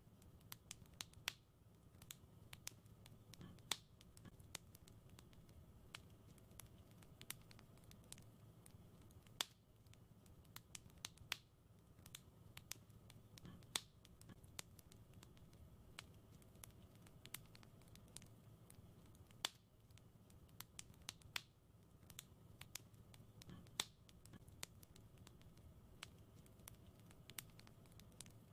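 Fire in a fireplace crackling: irregular sharp pops and snaps, now sparse, now several close together, over a quiet low steady rumble.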